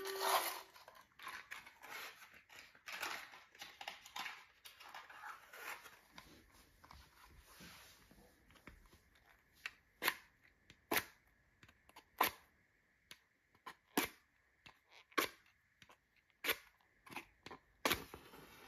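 Freshly lit kindling fire in a fireplace: a hissing, rustling crackle for the first several seconds, then sharp single pops about once a second as the wood catches.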